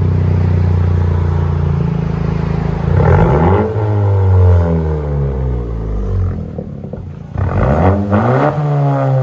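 Honda Civic Si's 1.5-litre turbocharged four-cylinder running through a muffler-delete exhaust: it idles steadily, then is revved twice, each time rising sharply and dropping back. The revs come about three seconds in and again near the end.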